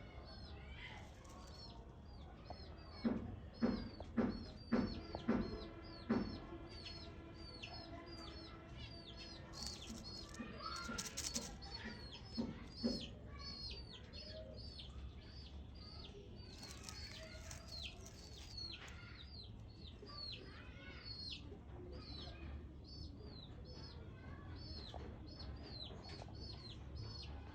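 A baby bird cheeping over and over, short high chirps about twice a second. About three seconds in comes a run of about seven short, loud low sounds, and a brief rustle follows around ten to twelve seconds in.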